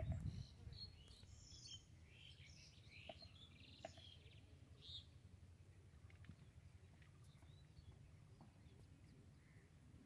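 Faint birds chirping, a flurry of short high calls in the first half, over a low steady rumble.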